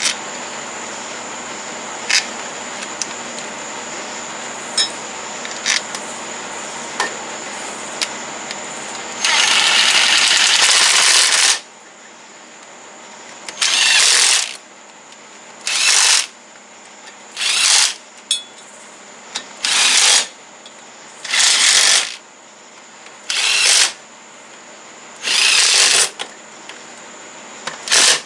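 A steady hum with a few sharp clicks, then a run of short hissing blasts of one to two seconds each, about every two seconds: the first, about nine seconds in, is the longest.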